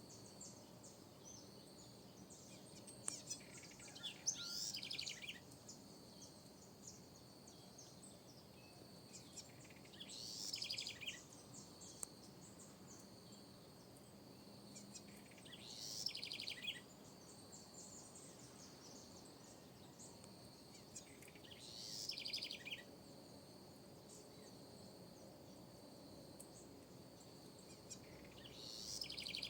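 House wren (corruíra) singing: five short, rapid, bubbling song phrases repeated about every six seconds. A steady high insect trill, like a cricket, runs underneath.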